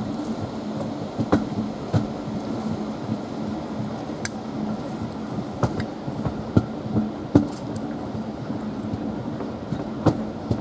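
Train running along the track, heard from the locomotive cab: a steady hum with irregular knocks and clicks from the wheels over the rails.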